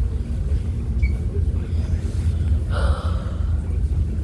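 Ferry's engines giving a steady low rumble, with a brief breathy sound about three seconds in.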